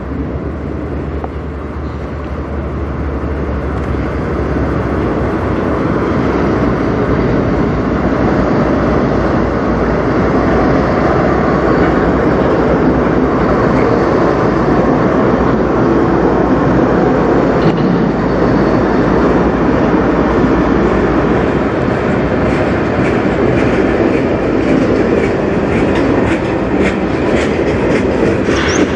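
CN diesel freight locomotives passing close by with their engines running, followed by freight cars rolling past. The sound swells over the first few seconds, then stays loud and steady, with sharper wheel clicks over the rail joints near the end.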